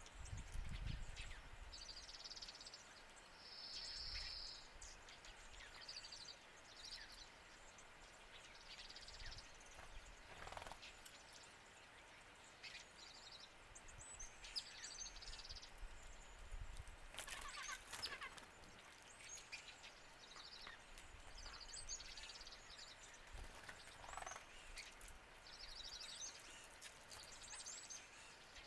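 Small birds calling faintly: short high chirps and brief trills repeated every second or two, with a few sharper chirps partway through.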